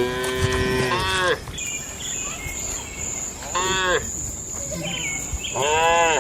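Cattle mooing three times: a long call at the start, a short one past the middle, and another near the end. A steady high insect trill, like crickets, sets in after about a second and a half.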